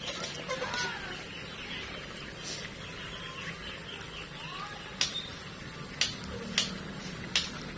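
Birds calling with short chirps over a steady background, and four sharp clicks or knocks in the second half.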